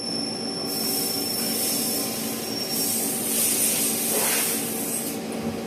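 CNC machine running: a steady mechanical hum with a thin high whine that stops about halfway, and a high hiss that starts under a second in and cuts off shortly before the end.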